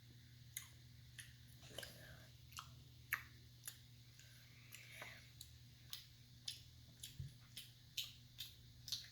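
Faint, sharp mouth clicks and smacks, about two a second, of a child chewing a very chewy yogurt candy.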